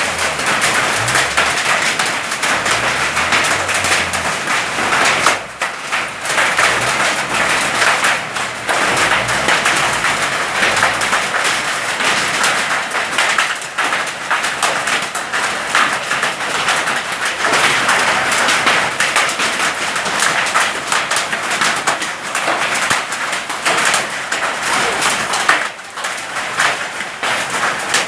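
Hail falling: a dense, continuous clatter of hailstones striking hard surfaces, with brief lulls.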